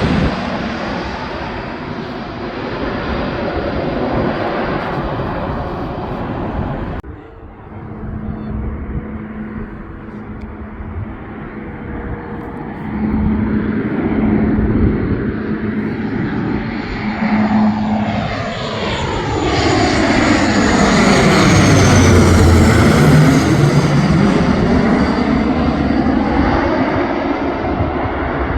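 Airliner engines as an aircraft passes close by, swelling to their loudest a little over 20 seconds in, with a high whine falling in pitch as it goes past. The noise breaks off abruptly about 7 seconds in and starts again.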